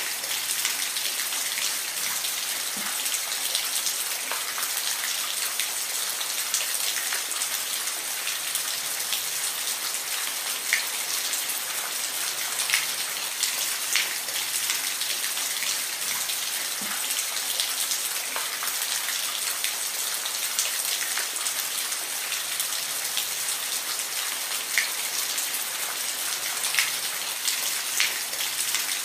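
Steady rain falling, an even hiss with scattered individual drops ticking sharply.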